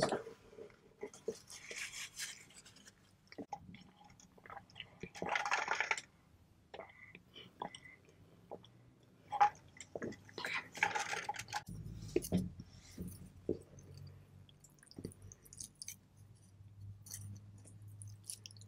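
Close-miked eating sounds of a person chewing pho noodles: wet mouth clicks and smacks, with two longer noisy bursts a few seconds apart.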